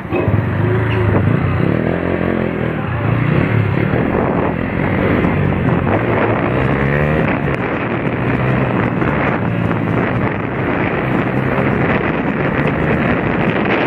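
A vehicle engine running, with heavy wind noise on the microphone. The engine note rises and falls a few seconds in.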